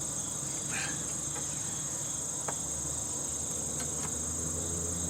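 Steady, high-pitched drone of insects such as crickets. Underneath it is a low engine hum from a lawn mower working nearby, which grows a little louder about halfway through. A couple of faint clicks are heard.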